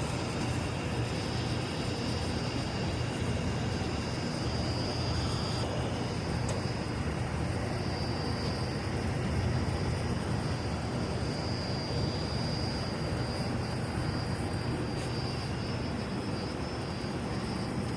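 Newly installed commercial cooler compressor and condenser fan running, a steady drone with a low hum and a thin high whine.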